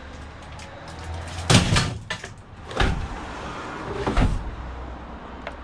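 Scrap items being handled: a loud clatter about a second and a half in, then two shorter knocks, over a steady low hum.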